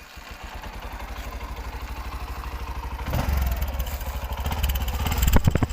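Bajaj CT110X BS6 motorcycle's single-cylinder four-stroke engine idling with an even exhaust beat, getting louder about three seconds in. A couple of short clicks near the end.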